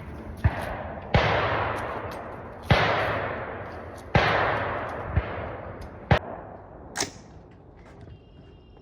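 About seven rifle shots, unevenly spaced. Three of them, about a second and a half apart, trail off in a long rolling echo; the others are short, sharp cracks.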